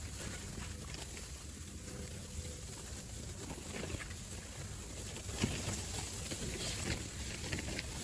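Strong wind buffeting the microphone as a steady low rumble, with scattered light ticks of snow or ice striking nearby.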